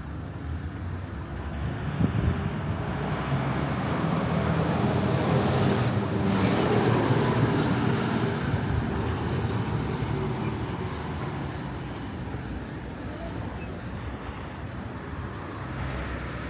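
A motor vehicle passes on the street, its engine and tyre noise swelling to a peak about six to eight seconds in and then fading back into the steady traffic hum.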